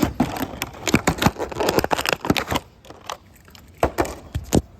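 Die-cast toy cars rattling and clicking down a plastic Hot Wheels track in a dense run of clatter for a couple of seconds, followed by a few separate sharp clicks and knocks.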